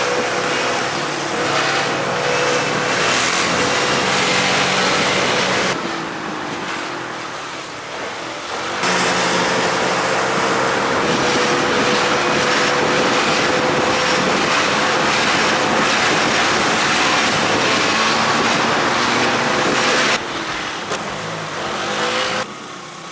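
Moped or small motorcycle being ridden: the engine runs steadily under a loud rushing noise, easing off twice for a few seconds, about a quarter of the way in and again near the end.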